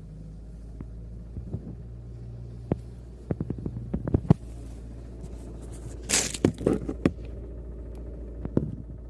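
Maruti Suzuki Brezza diesel engine idling with irregular sharp knocks over its steady hum, a louder scraping burst about six seconds in. The knocking is the sign of a worn connecting rod bearing.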